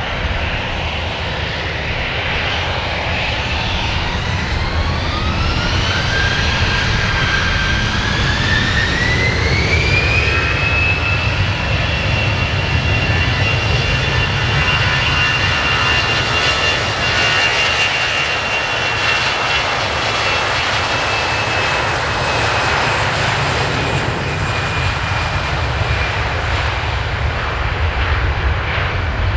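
Airbus A321ceo's twin turbofan engines spooling up for takeoff: a whine rises in pitch over the first ten seconds, then holds steady over a loud, even rumble.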